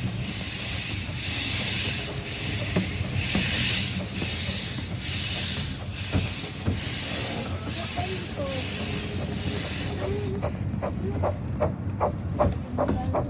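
Romney, Hythe & Dymchurch 15-inch-gauge steam locomotive working along, its exhaust beating in an even rhythm of hissing chuffs a little more than once a second over the low rumble of the running train. About ten seconds in the chuffs stop abruptly, as when the regulator is closed and the locomotive coasts, leaving quick regular clicks of wheels over the track.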